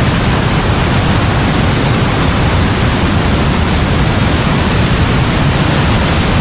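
Heavy rain pouring steadily, a dense, even hiss with no thunderclap.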